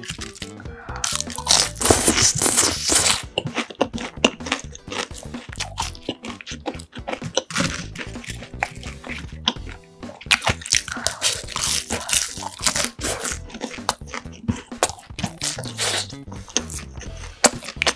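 Close-up crunching and chewing of deep-fried sweet and sour pork (tangsuyuk), its crisp batter crackling bite after bite.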